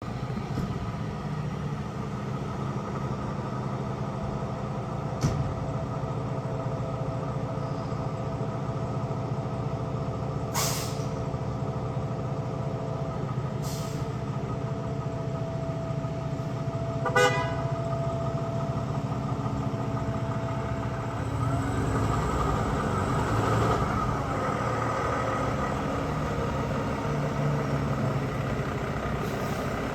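Diesel engine of a 2020 Pierce Arrow XT fire ladder truck running steadily, with two brief hisses and a short horn toot partway through. The engine gets louder about two-thirds of the way in.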